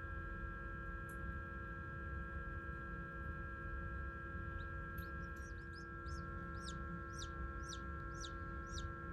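Micro bantam chick peeping: from about five seconds in, a run of short high calls, each falling in pitch, about two a second. A steady electrical hum runs underneath.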